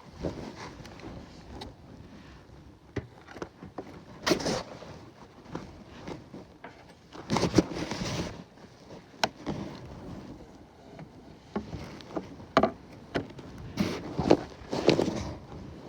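Bee-suit fabric rubbing over a phone microphone in a pocket: irregular rustles and bumps as the wearer moves, the loudest about halfway through and again near the end.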